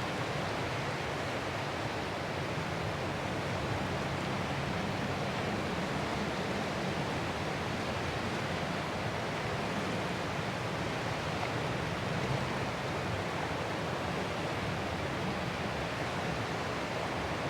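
Ocean surf heard as a steady, even wash of noise, with no separate wave crashes standing out.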